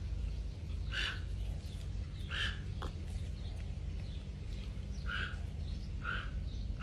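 A bird calling: short single calls repeated four or five times at uneven intervals of one to three seconds, over a steady low rumble.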